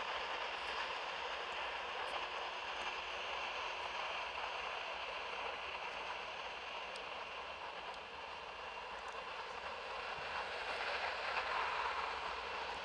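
Steady rushing noise of jet aircraft engines at an airport, swelling slightly near the end.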